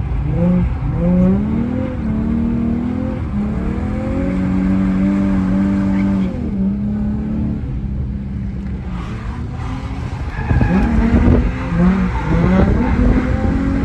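A car engine revving hard while drifting: the revs rise and drop in quick steps, hold steady for a couple of seconds in the middle, then climb again, with a rougher, louder stretch from about ten seconds in.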